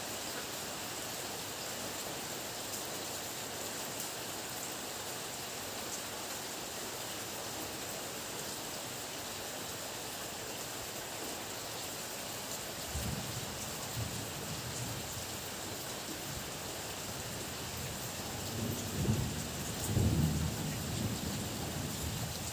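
Heavy rain pouring steadily. About halfway through, thunder starts to rumble low underneath it, swelling to its loudest near the end.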